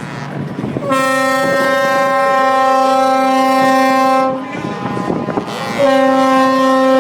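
A truck's multi-tone air horn sounding two long blasts: the first lasts about three and a half seconds, and the second starts near the end.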